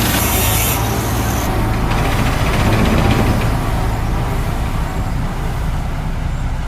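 A large engine running steadily with a low rumble, with a sharp hiss of air in the first second or so.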